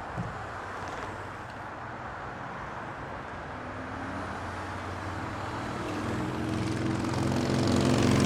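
Jet airliner engines: a broad rushing noise that grows steadily louder, with a low steady engine hum joining in over the last few seconds.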